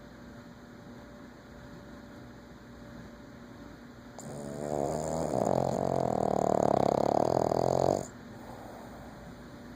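Boston terrier snoring: one long, loud snore about four seconds in that lasts nearly four seconds, building up and then cutting off abruptly. This kind of loud snoring is typical of the breed.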